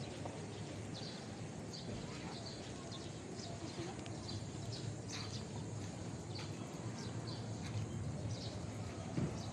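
Outdoor ambience: steady low background noise with small birds chirping repeatedly in short high notes.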